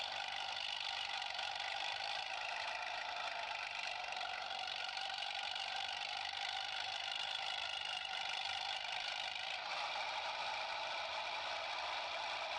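Small electric motor of a toy vehicle running steadily with a high whine, its tone shifting slightly about ten seconds in.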